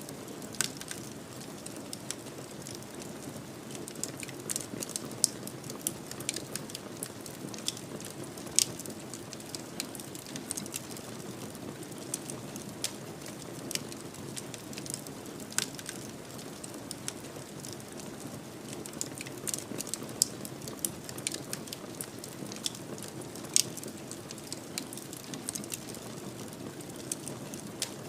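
Wood fire crackling in a fireplace: irregular sharp pops and snaps, a few louder than the rest, over a steady soft rush from the burning logs.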